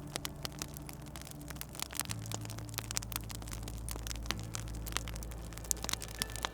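Wood fire crackling, with many small sharp pops and snaps, over a low steady drone.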